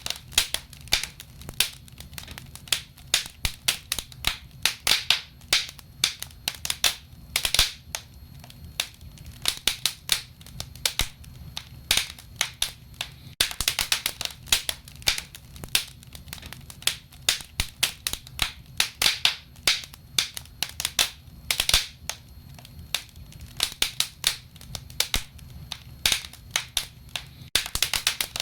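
Wood fire burning and crackling, with many irregular sharp snaps and pops over a low steady rumble.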